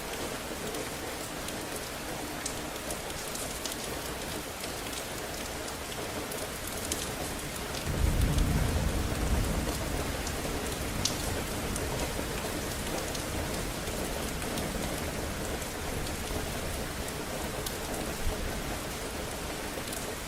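Steady rain falling on surfaces, with scattered individual drops ticking. About eight seconds in a low rumble of thunder comes in and fades away over a few seconds.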